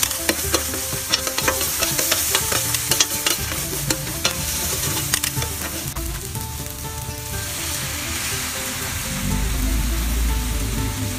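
Diced vegetables and chili paste sizzling on a hot flat-top griddle, with a spatula scraping and tapping against the griddle in quick strokes. The strokes stop about halfway through and the sizzle carries on.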